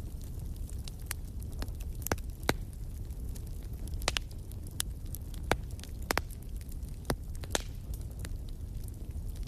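Wood fire crackling in a fireplace: a steady low rumble of flames with irregular sharp pops and snaps from the burning logs.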